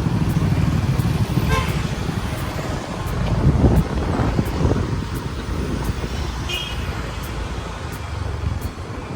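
Motorbike riding along a road: steady engine and road noise with heavy low wind rumble on the microphone, swelling a few seconds in and easing toward the end. Two short high-pitched sounds cut through, about a second and a half in and again around six and a half seconds.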